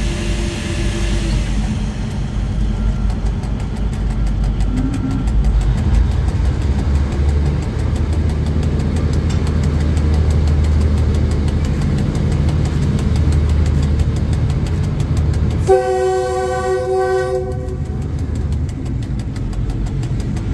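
Train running along the track with a steady low rumble that strengthens about five seconds in. About sixteen seconds in, the train's horn sounds one blast of about a second and a half, a warning to people crossing or walking on the tracks ahead.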